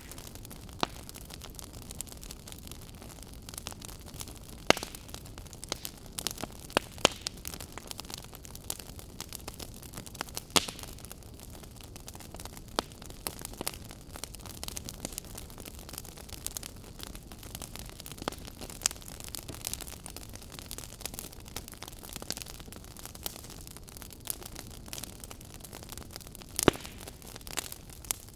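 Wood fire burning: a steady crackling hiss with sharp pops from the burning wood scattered throughout, a few of them much louder.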